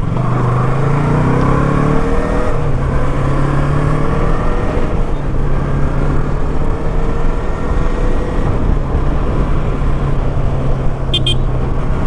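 Motorcycle engine pulling under way with a low rush of wind noise. The revs climb for about two seconds, drop at a gear change, then rise slowly and level off. A brief high chirp comes near the end.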